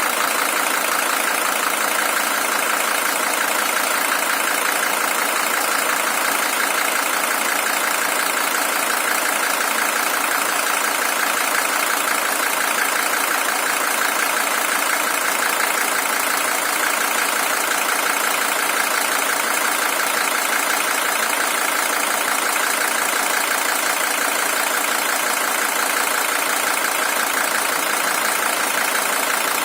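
Mercedes-Benz OM617 five-cylinder diesel engine in a W123 300TD idling steadily. It is the original engine, with 620,000 km on it.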